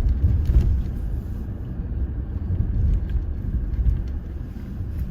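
Steady low rumble of a car, heard from inside the cabin while driving in traffic.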